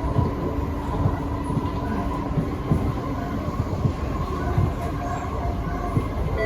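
SMRT C151C electric metro train (Kawasaki & CRRC Sifang) running at speed, heard from inside the car: a steady rumble of wheels on rail with irregular low knocks, and a faint steady hum from the running gear.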